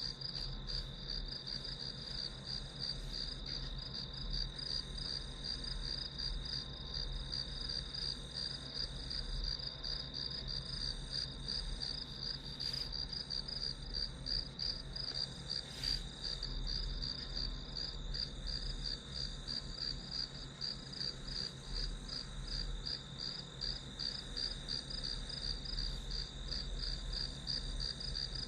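Crickets chirping in a steady, rapid, high-pitched trill that carries on without a break.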